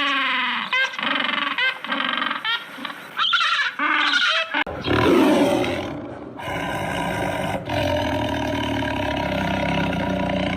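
Recorded animal calls, two clips in turn. First comes a run of short, repeated pitched calls. About halfway a louder, rough, low roaring call takes over and holds steady until it is cut off at the end.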